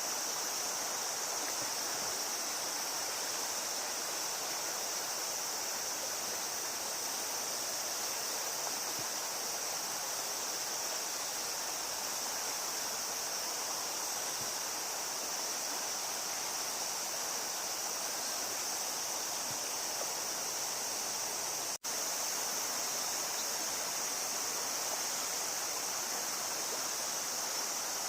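Steady rush of river water with a constant high hiss over it. The sound drops out for an instant about three-quarters of the way through.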